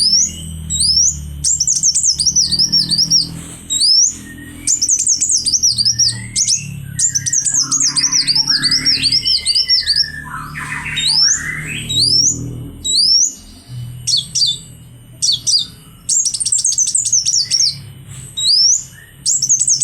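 Kolibri wulung sunbird singing hard and continuously: quick runs of high, thin chirps and trills repeated in phrases, with short gaps between them, the bird in full song while moulting.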